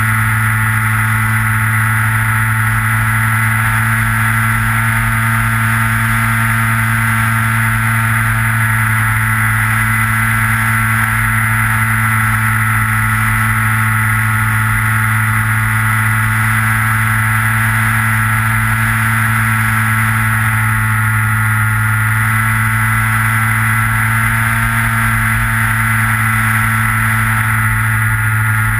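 Electric motor and propeller of a Skywalker FPV model plane running at a steady throttle, heard from the onboard camera as a constant whine with several steady tones, over low wind buffeting on the microphone.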